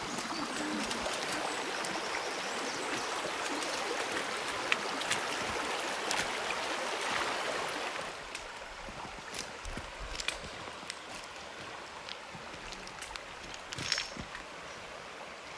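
Rushing water of a stony mountain river, a steady rush that drops noticeably in level about eight seconds in, with scattered short clicks and knocks over it.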